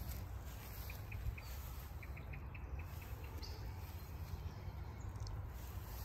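Outdoor meadow ambience: a small bird chirping in quick runs of short high notes, twice in the first half, over a low steady rumble.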